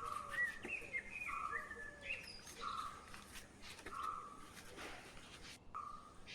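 Birds calling: one bird repeats a short, steady whistled note about every second and a half, and short higher notes that fall in pitch come in between.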